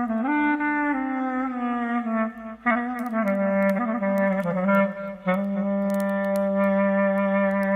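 Solo clarinet playing a slow, gliding melody with two brief breath breaks. About five seconds in it settles on a long, held low note. Faint campfire crackles sit underneath.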